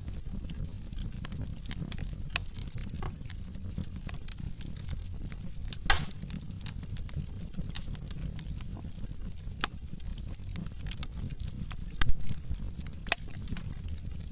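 Wood fire burning in a fireplace: a steady low rumble of flames with scattered sharp crackles and pops, the loudest pops about six seconds in and near the end.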